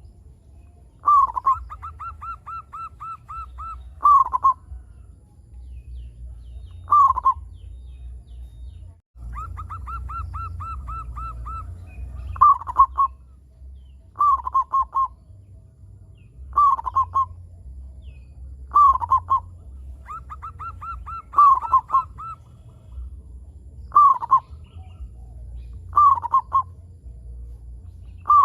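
Zebra dove (perkutut) singing: a phrase every two to three seconds, each opening with a loud falling coo, some trailing into a quick run of many short, soft repeated notes. A steady low rumble lies underneath, and the sound cuts out for a moment about nine seconds in.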